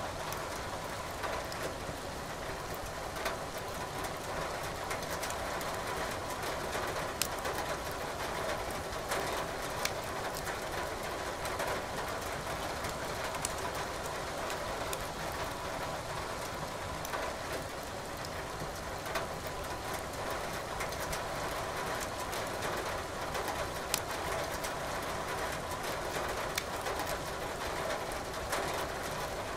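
Wood fire crackling in a fireplace, with scattered sharp pops over a steady hiss of falling rain.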